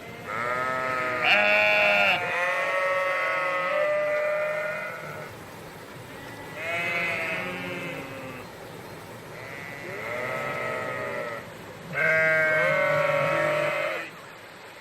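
A sheep or goat bleating repeatedly: about five long, wavering calls, each lasting a second or more.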